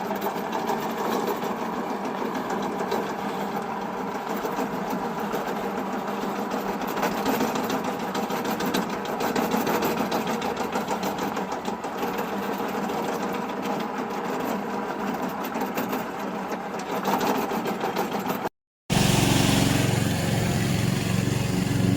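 Remote-controlled lawn mower running steadily, its engine giving a fast, even hum. About eighteen and a half seconds in the sound cuts out briefly and comes back louder and deeper.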